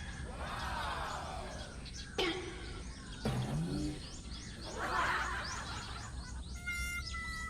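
Birds chirping in quick, repeated short calls, mixed with several large swooping glides in pitch and a sharp hit about two seconds in. Steady musical tones come in near the end.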